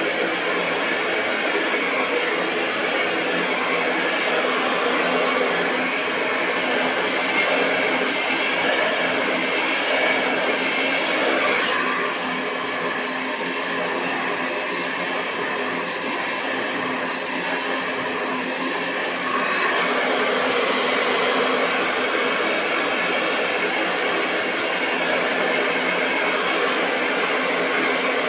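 Hair dryer running steadily: a continuous rush of airflow over a low, even motor hum. It drops slightly in level for several seconds in the middle, then comes back up.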